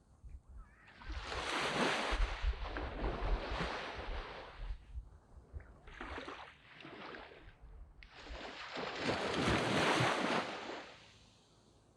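Waves breaking and washing up a sand beach, each surge swelling and then fading: a long one about a second in, a short one around six seconds, and another big one near nine seconds.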